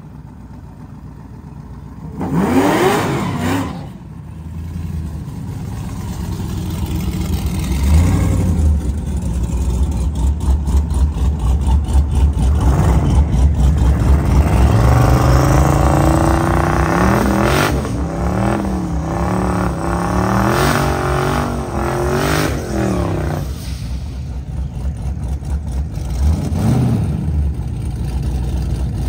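Drag-race car engines at the starting line. A short sharp rev comes about two seconds in, then a loud, lumpy, pulsing engine note sets in. Through the middle the revs climb in a series of rising steps and fall off, and a brief rev comes near the end.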